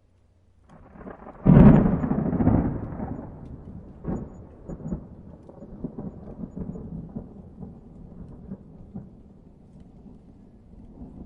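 A clap of thunder: a low rumble comes in about a second in, a sharp crack follows, then a long rolling rumble with scattered crackles dies away.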